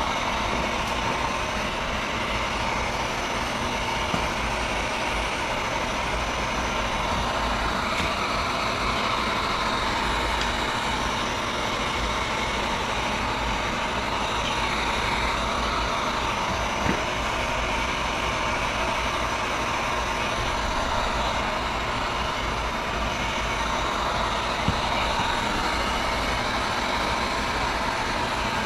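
Handheld hot-air blower, most likely a heat gun, running steadily: an even rush of air over a motor hum with a faint steady whine. It is heating a motorcycle tank badge to soften the 3M adhesive tape behind it.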